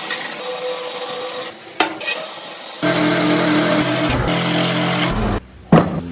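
Woodworking tool noise: a steady rasping scrape on wood, then a small power tool motor running steadily for about two seconds. The sounds start and stop abruptly.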